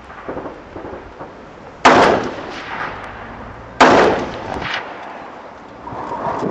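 Two rifle shots from a BCM 14.5-inch midlength AR-15, about two seconds apart, each cracking sharply and then echoing away, with wind noise on the microphone.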